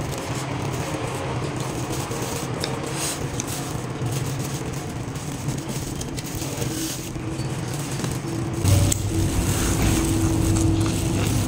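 Chewing and crunching of raw leafy greens, with a few short clicks and scrapes of handling, over a steady low mechanical hum that grows louder about nine seconds in.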